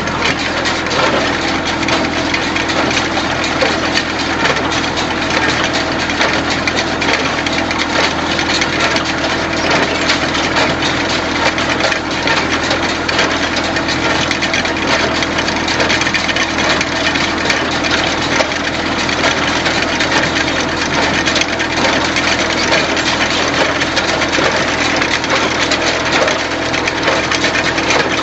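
Massey Ferguson 135 tractor running steadily while driving an MF 20 small square baler, with a dense, continuous rattle and clicking from the baler's working mechanism.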